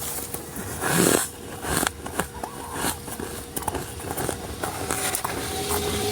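Close-miked crunching of freezer frost being bitten and chewed: one loud crunch about a second in, then a run of smaller crisp crackles. Faint steady tones come in near the end.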